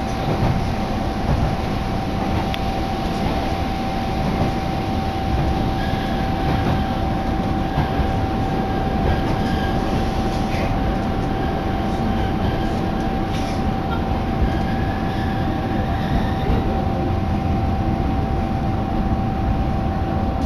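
A diesel railcar on the Hitachinaka Seaside Railway, heard from inside the car while under way. The engine and the wheels on the rails make a steady, dense running noise, and a steady high-pitched tone sits above it.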